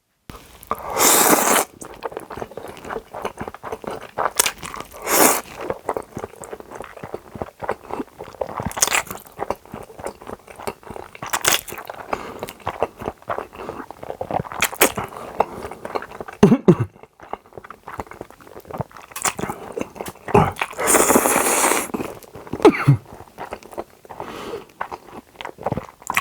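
Close-miked eating: chewing and biting with many small sharp clicks, and a few louder noisy bursts, the longest about a second in and near the end.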